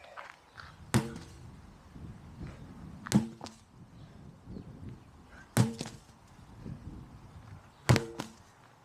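A 16 lb sledgehammer striking down four times, about every two and a half seconds. Each blow is a sharp hit with a short ringing tone, sometimes followed by a lighter knock.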